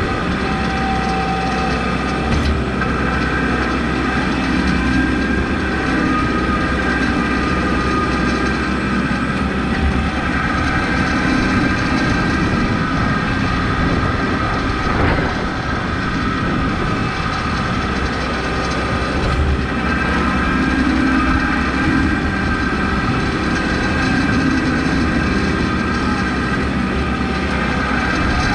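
Kubota MX5200 tractor's four-cylinder diesel engine running steadily with a constant whine, with a few brief knocks.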